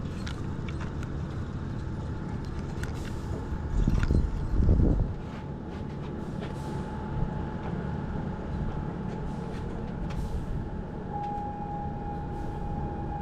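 Steady low mechanical drone with a thin high whine over it, swelling louder for about a second around four seconds in.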